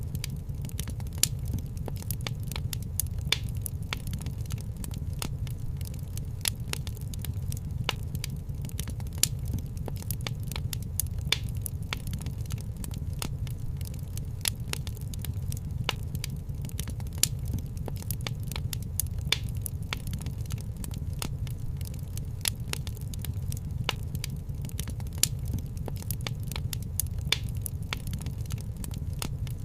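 Fireplace fire crackling: a dense patter of small crackles, with louder pops every couple of seconds, over a steady low rumble of the flames.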